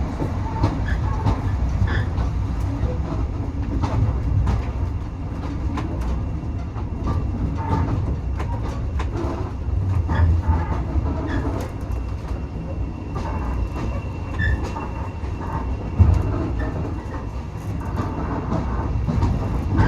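Railway carriage running along the track: a steady low rumble with scattered clicks and knocks from the wheels and running gear, and a faint high wheel squeal for a few seconds after the middle. One louder knock comes near the end.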